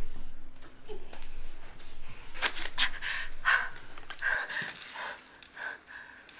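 A person panting in quick, heavy breaths, about two a second, from a couple of seconds in.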